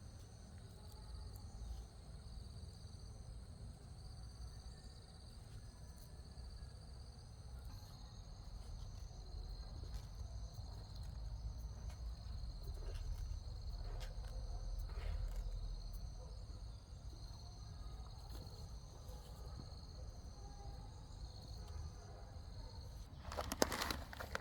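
Insects chirring steadily in several high tones over a low rumble. About a second before the end, a loud crackling, crunching rustle starts.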